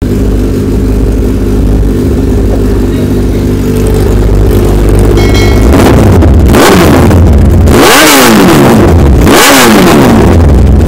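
Motorcycle engine idling steadily, then revved twice in the second half, each rev rising and falling in pitch before it settles back to idle.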